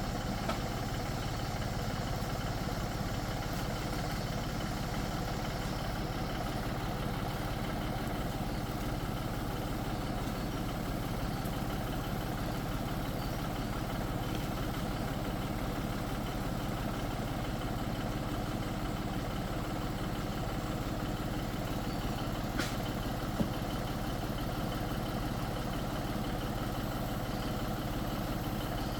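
Tractor engine running steadily at an even speed, with one brief sharp tick a little past two-thirds of the way through.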